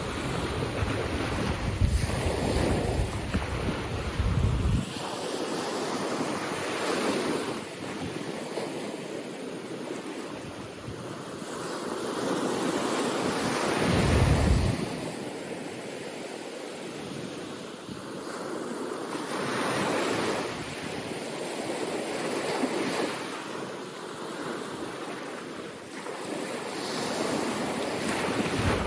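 Ocean waves washing onto a beach, the surf swelling and fading every several seconds, with wind buffeting the microphone in gusts, heaviest at the start and about halfway through.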